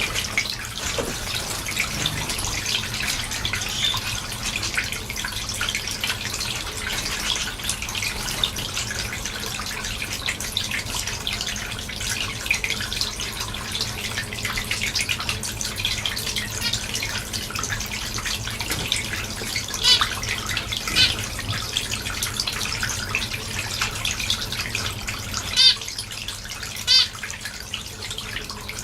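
A flock of small cage finches, zebra finches, society finches and Gouldian finches, chattering continuously as a dense twittering. Several louder, quick runs of calls stand out in the second half.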